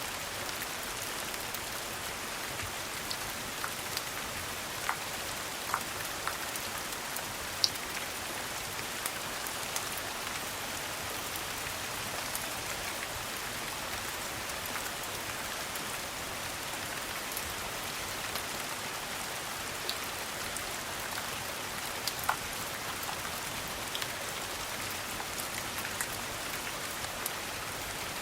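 Steady rain falling on a hard surface, an even hiss with scattered sharp ticks and pops.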